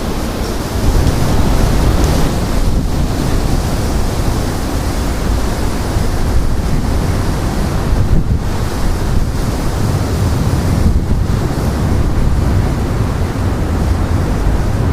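Strong gusting wind buffeting the microphone: loud, continuous low rumble that surges and eases with the gusts.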